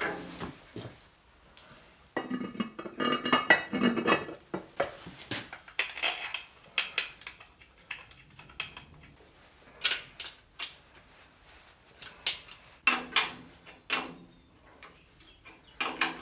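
Metal tools and pipe fittings clinking and tapping as oil pipes are fitted to a Land Rover 200Tdi turbo, with a busier rattling stretch about two seconds in and scattered single clinks after.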